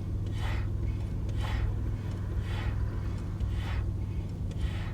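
Car engine running, heard from inside the cabin as a steady low drone, with a soft swish repeating about once a second.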